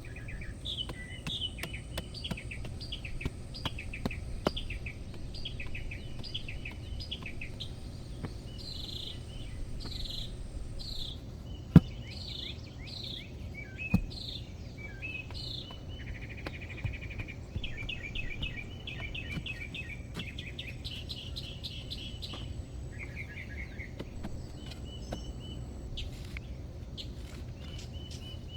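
Small songbirds chirping and singing in quick repeated phrases, over a steady low rumble. Two sharp knocks stand out, about twelve and fourteen seconds in.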